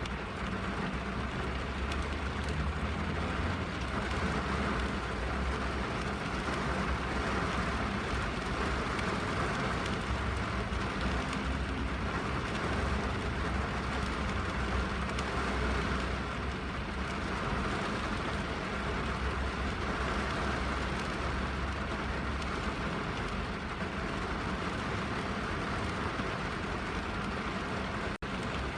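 Steady rain on a car's roof and windows, heard from inside the car, with a low rumble beneath it. A very brief drop-out comes near the end.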